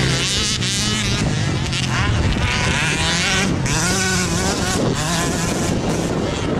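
Several motocross motorcycles racing, their engines revving up and down over and over as the riders work the throttle.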